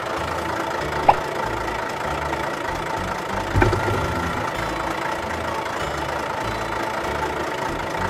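Tractor engine running steadily, with a sharp click about a second in and a knock about halfway through.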